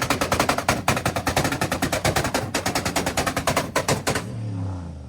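A tuned V8 car's exhaust crackling and popping in a rapid string, about ten pops a second, typical of a pop-and-burble tune on an engine with headers. The pops stop about four seconds in and the engine drops back to a falling drone.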